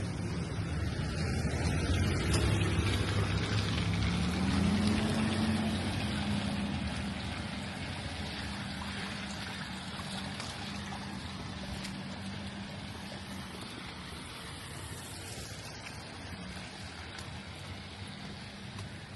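Steady rain hiss with a motor vehicle's engine hum close by. The engine is loudest a few seconds in, rises briefly in pitch, then fades.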